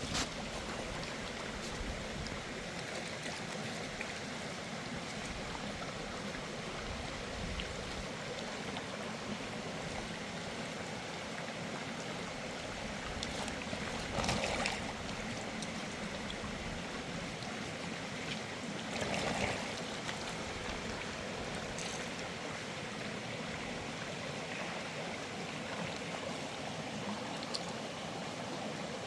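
Steady rushing of flowing water, like a stream. It is broken by two short louder swells, one about halfway through and another about five seconds later.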